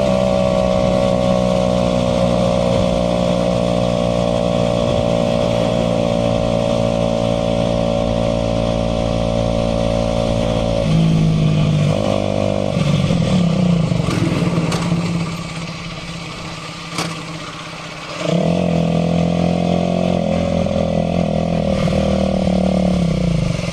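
Aprilia RS4 125's single-cylinder four-stroke engine under way. It holds a steady note for about ten seconds, changes pitch briefly, then drops away quieter for a few seconds with a single click. About eighteen seconds in it picks up strongly again and runs steadily, dipping once more near the end.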